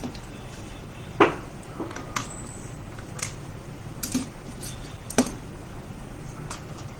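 Scattered sharp clicks and knocks of laptop parts being handled and taken apart, the loudest about a second in.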